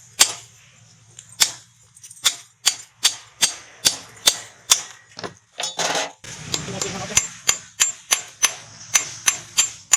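Blacksmith's hammer striking rebar on an anvil: a steady run of sharp, ringing blows, about two to three a second. A short rushing noise comes about six seconds in.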